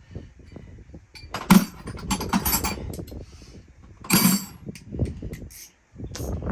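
Clinks and knocks of hand tools working against metal parts, with a sharp clank about one and a half seconds in and another just after four seconds.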